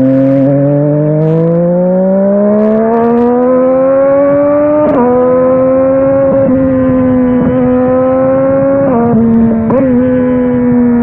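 Yamaha Tracer 900 GT three-cylinder engine through an aftermarket WR exhaust, pulling up through a gear so the pitch climbs steadily for about five seconds. It then drops sharply on a gear change and runs at steady speed, with two quick dips in pitch near the end.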